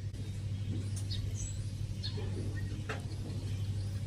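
Faint, short, high squeaks of a baby bird scattered a few times over a steady low hum.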